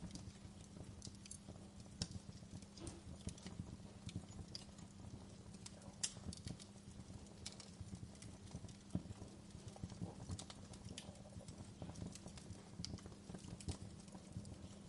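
Wood fire burning in a fireplace, crackling and popping in irregular sharp snaps over a low steady rumble, with louder pops about two, six and nine seconds in.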